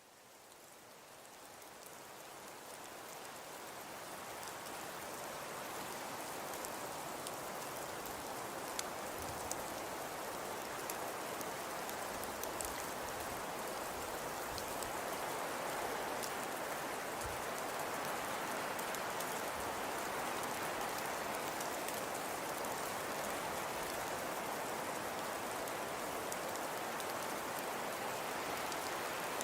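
Fireplace fire crackling: a steady hiss with scattered small pops. It fades in over the first few seconds, then holds level.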